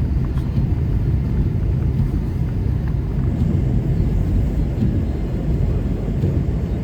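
Car driving on a snow-covered road, heard from inside the cabin: a steady low rumble of engine, tyres and wind.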